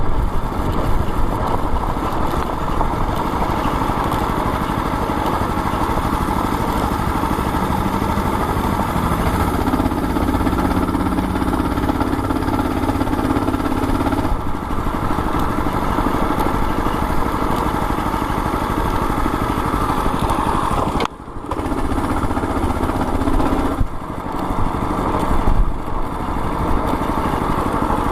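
Predator 212 single-cylinder engine on a mini bike running steadily, with changes in pitch and a brief drop in level about three quarters of the way through.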